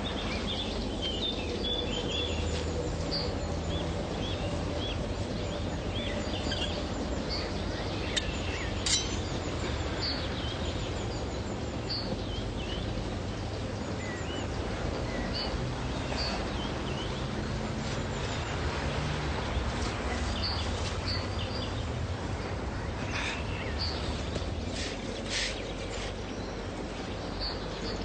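Small birds chirping now and then over a steady hiss of outdoor background noise.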